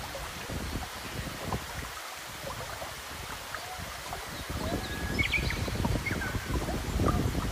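Outdoor ambience of running river water, with small high chirps scattered throughout and a low rumble that swells in the second half and cuts off abruptly at the very end.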